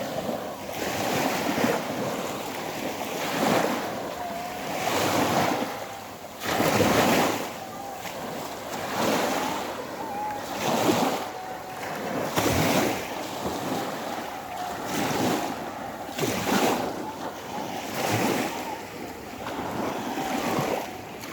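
Sea waves washing in and breaking, a swell of surf every second or two, with wind buffeting the microphone.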